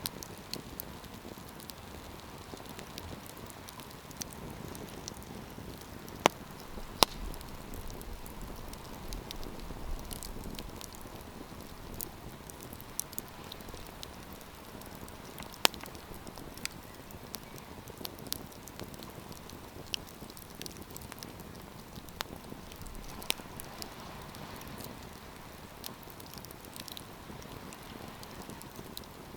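Wood campfire burning: a soft steady rush of flame with irregular crackling and a handful of sharp, loud pops.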